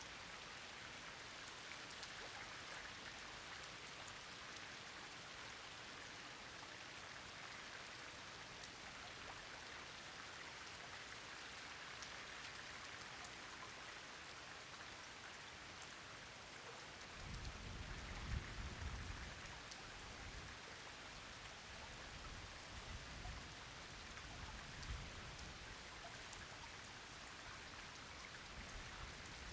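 Steady rain falling, an even hiss with scattered drip ticks. From a little past halfway, irregular low rumbles come and go beneath it.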